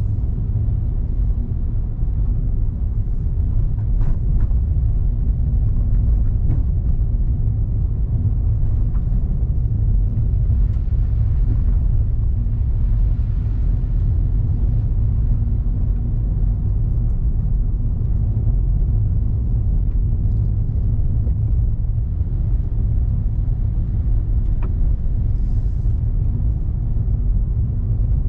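A moving vehicle's steady low rumble of engine and road noise while driving along a road.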